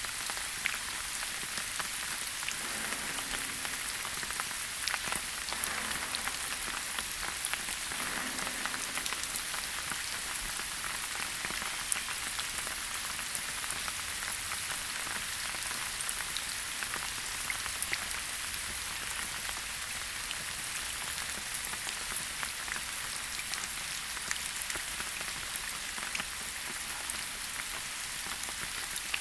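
Steady rain falling in a forest: a dense, even hiss of rainfall with many small individual drop ticks.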